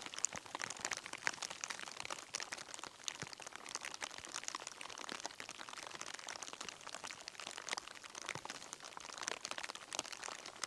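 Rain pattering: faint, irregular ticks of drops falling close by, with no steady rhythm.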